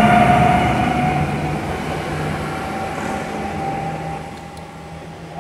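Regional multiple-unit train pulling away from the platform: a steady motor whine with a low hum, fading as the train leaves. A short knock at the very end.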